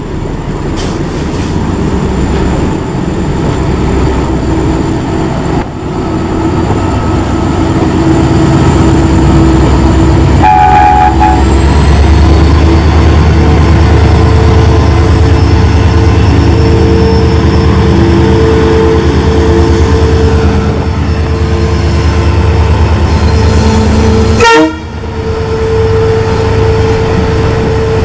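Diesel trains running at speed, with the locomotive engine drone and rail noise building up over the first dozen seconds and then holding steady. A short horn sound comes about ten seconds in, and a sudden loud blast near the end.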